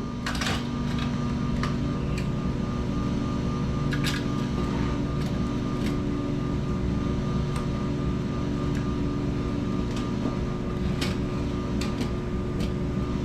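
Steady mechanical hum with a few steady tones in it, broken by occasional light clicks and knocks.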